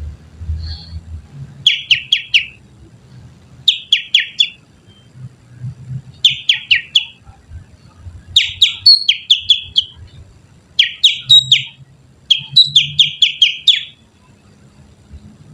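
Finger whistling that imitates the call of a kutilang sutra bulbul, used as a lure call: six short phrases of three to six quick, falling whistled notes, about two seconds apart.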